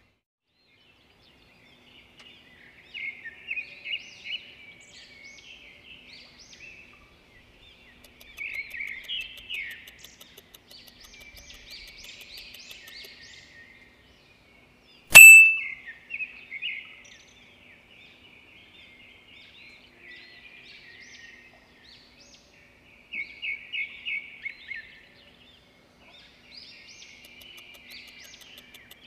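Birds chirping and singing in clusters of quick, high repeated notes. About halfway through, a single sharp ding-like strike rings briefly and is the loudest sound.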